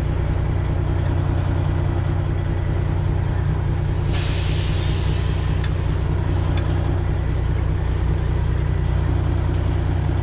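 Detroit Diesel 12.7-litre engine of a Freightliner Classic XL semi truck running steadily at low revs while reversing. A short hiss of air breaks in about four seconds in.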